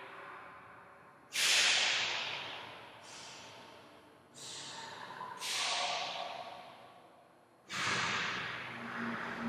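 A person making a string of sharp, hissing noises, about five of them, each ringing on in a long echo from the stairwell's hard walls.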